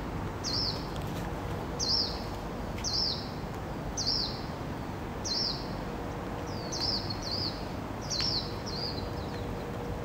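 Birds chirping: short, high, sharp chirps, each a quick falling note, repeated about once a second, with a few coming in quick pairs near the end.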